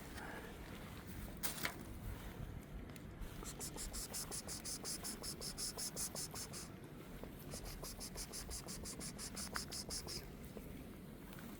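An insect chirping in a fast, even, high-pitched pulse, about five chirps a second, with a short break midway.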